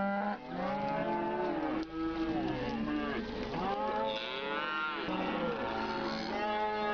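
Several cows mooing, their long calls overlapping and following one another without a break.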